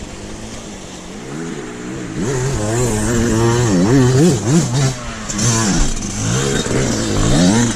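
Trail motorcycle engine revved up and down over and over, getting louder about two seconds in.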